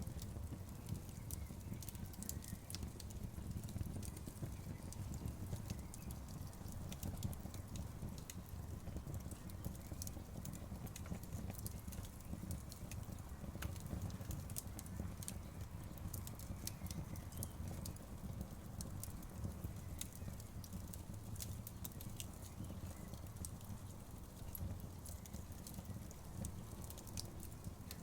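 Outdoor wood bonfire crackling: many irregular sharp pops and snaps over a steady low rumble of the burning fire.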